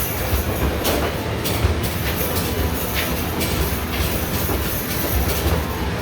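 Arcade basketball machine in play: basketballs rumbling and rattling along the machine's ball return, with a few sharp knocks from balls striking the hoop and backboard.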